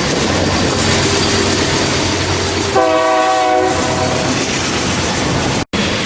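Plasser American track maintenance machine rolling past close by with a loud rumble and wheel clatter, giving a short horn blast about three seconds in. The sound cuts out for an instant near the end.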